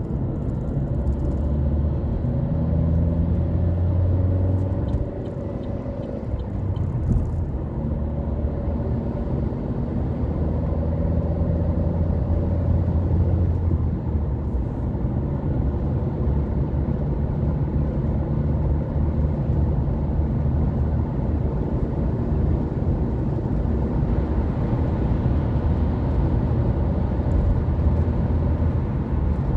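A car driving on the road, with steady engine hum and tyre and road noise. The engine note shifts about five seconds in and again around fourteen seconds, with a brief dip in loudness at the first change.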